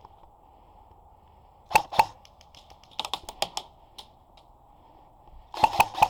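Airsoft guns firing single shots as sharp cracks: two a little under two seconds in, a quicker string of shots around three seconds in, and four more in fast succession near the end.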